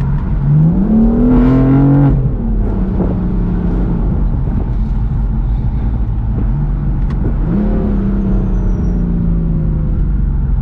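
2015 BMW M4's twin-turbo inline-six accelerating hard: the engine and exhaust note climbs steeply from about half a second in, drops at an upshift about two seconds in, then settles. About seven and a half seconds in it pulls again briefly and eases off, over a steady low road rumble.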